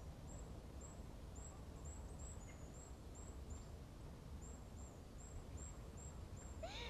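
Faint, short, high chirps of a small bird, repeating about twice a second with a brief pause near the middle, over a low background hum.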